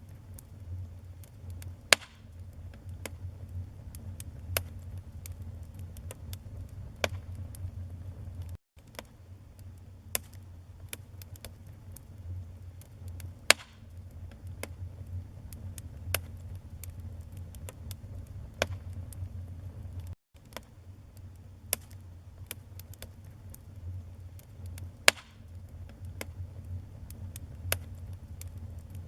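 Wood fire burning in a fireplace: a steady low rumble of flames under frequent small crackles, with a louder pop about every eleven seconds. The sound cuts out very briefly twice.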